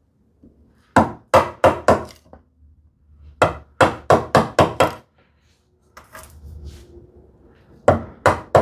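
Chisel being struck to chop waste from a groove in wood, in quick runs of sharp knocks: about five, then about seven, then more near the end.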